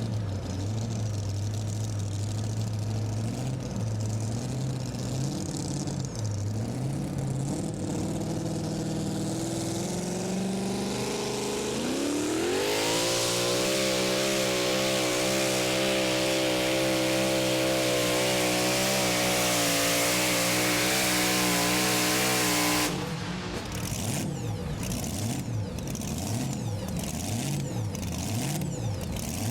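Super modified two-wheel-drive pulling truck's engine running at low revs, then winding sharply up about twelve seconds in to full throttle for a roughly ten-second pull. The throttle is cut suddenly near the end, and the engine drops back to a lower, uneven run.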